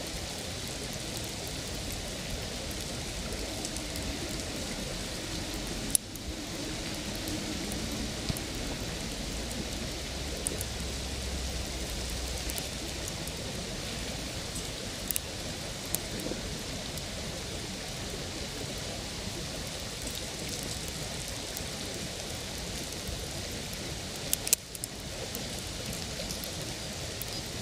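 Campfire burning, with scattered sharp crackles and pops over a steady rushing hiss.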